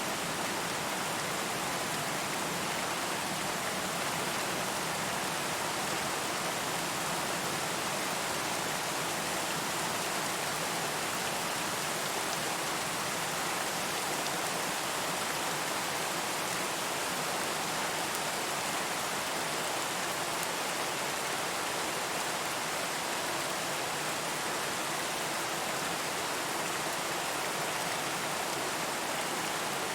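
Steady rain falling, an even hiss with no separate drops, thunder or changes standing out.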